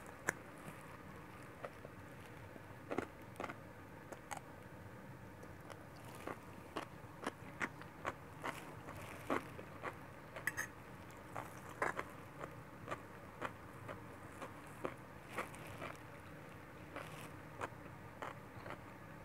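A person chewing stir-fried noodles, with irregular soft mouth clicks and smacks and a fork now and then scraping the plate.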